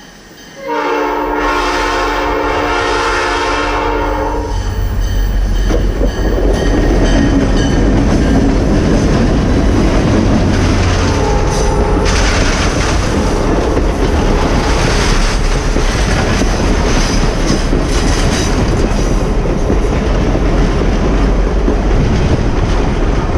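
Reading tourist passenger train sounding its horn in a multi-tone chord held for about three and a half seconds, then running past with a loud, steady rumble of wheels on the rails.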